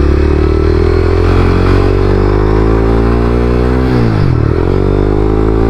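Honda CBR300R's single-cylinder engine pulling under acceleration, its pitch climbing steadily. About four seconds in the revs dip sharply and pick up again at a gear change. The rider says the bike sounds bad and is taking it in to be fixed.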